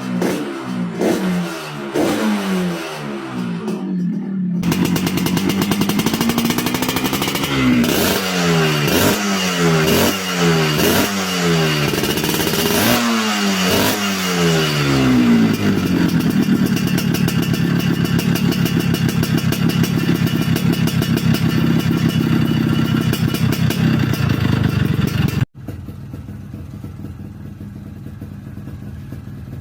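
Yamaha RX-King two-stroke single-cylinder engine through a standard-style silenced exhaust, revved in repeated quick throttle blips, then held at high revs for several seconds. Near the end it cuts off abruptly to a quieter steady idle.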